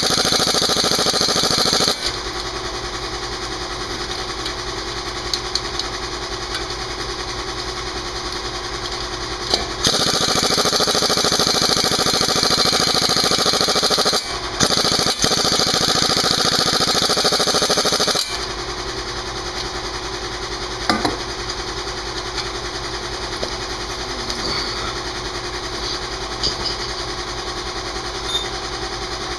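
Pneumatic impact wrench hammering on a seized brake caliper bolt in three bursts of a few seconds each. Between the bursts an air compressor keeps running with a steady low hum.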